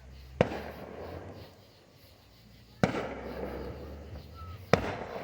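Three sharp fireworks bangs, about two seconds apart, each followed by a short echo.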